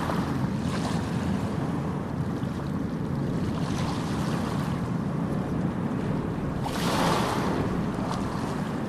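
Ocean surf on a beach: a steady rumble of breaking waves, with a louder wave rushing in about seven seconds in.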